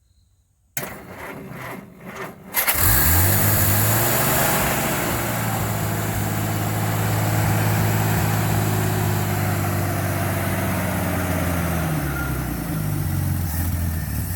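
1953 Plymouth Cambridge flathead six cranked by the starter for about two seconds, then catching and revving up. It settles into a steady fast run, and the revs drop near the end.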